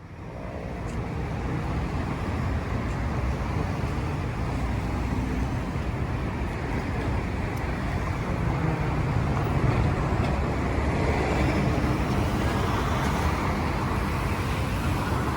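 Steady city traffic noise with a heavy low rumble, fading in over the first couple of seconds.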